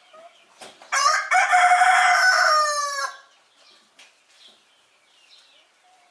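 Rooster crowing once, a loud call of about two seconds that drops in pitch at the end, followed by faint clucking from hens.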